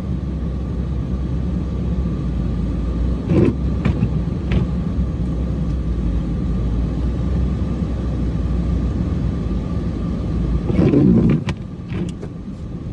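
Cummins diesel engine running steadily under way through deep snow, with a faint steady whine over its rumble. Twice, once about three seconds in and again near the end, a brief louder surge rises over it.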